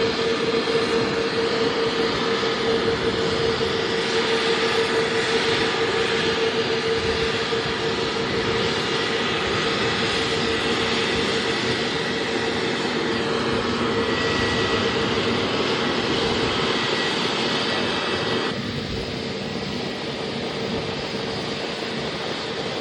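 Airliner engines running at an airport: a steady mix of engine noise with a strong, even hum and a fainter high whine. About eighteen seconds in, the hissing upper part of the sound drops off suddenly.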